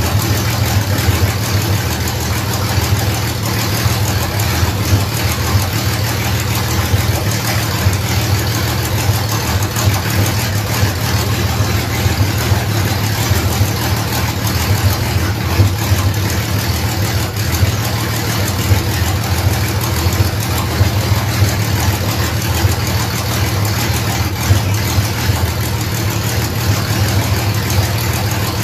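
1967 Ford Mustang's 200 cubic-inch inline six-cylinder engine idling steadily.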